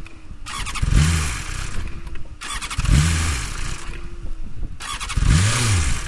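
BMW S1000RR's inline-four engine revving in three short bursts about two seconds apart, each rising and falling in pitch, with a low uneven running in between. The bike has an engine-control fault and is misbehaving.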